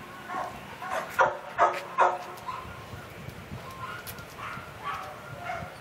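A dog vocalising: three short, loud barks in quick succession, then several quieter, higher calls.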